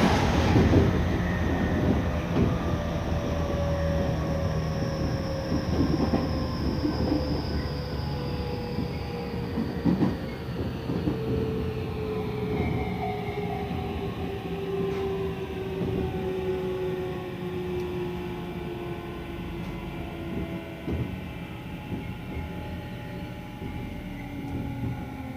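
Tokyu 5000 series electric train's traction motors and Hitachi IGBT-VVVF inverter whining in several tones that fall steadily in pitch as the train slows under its all-electric brake, heard from inside the carriage. Under the whine is a low rumble of wheels on rail, with a few sharp rail-joint knocks.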